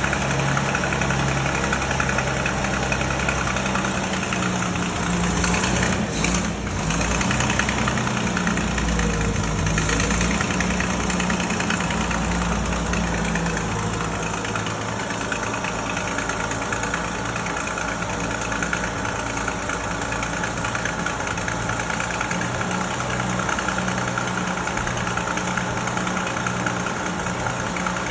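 1932 Bedford WLB coach's six-cylinder petrol engine idling steadily on its first run after an overhaul, with one brief dip about six seconds in.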